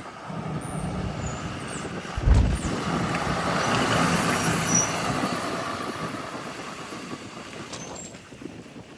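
Blue Bird Vision school bus's engine running as it pulls up and brakes to a stop, with a few short high brake squeals in the middle. A loud low thump comes just after two seconds, and the bus sound fades over the last few seconds.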